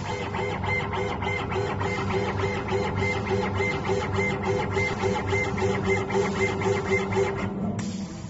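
CO2 laser cutting machine at work, its stepper-driven head moving in a regular pulsing whir just under twice a second over a steady hum. Near the end it changes abruptly to a steadier, quieter hum.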